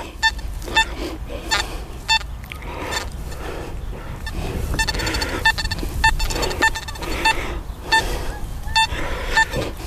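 XP Deus metal detector giving short beeps of one pitch, irregularly about once or twice a second, as the coil is swept over a target. The erratic response, with a jumping XY screen, is one the detectorist takes for iron scrap.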